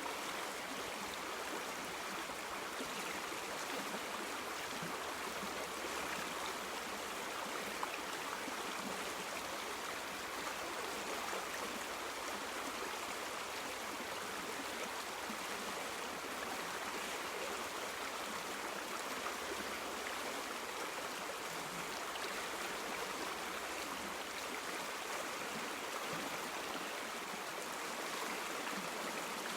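A river stream flowing steadily over stones, an even rushing babble of water.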